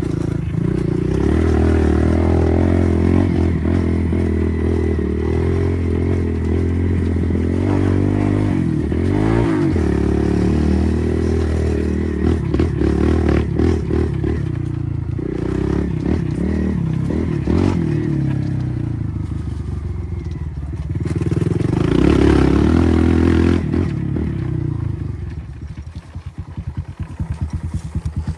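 Kawasaki KLX140RF dirt bike's single-cylinder four-stroke engine running and revving, its pitch rising and falling several times. Near the end it drops back to a fast, uneven putter.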